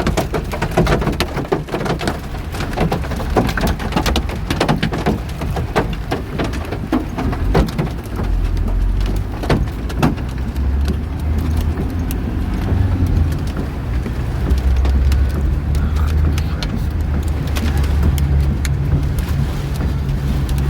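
Petrol car driving in rain: a steady low engine and road rumble with many light clicks and rattles, densest over the first ten seconds. This is the light rattling the owner wants diagnosed.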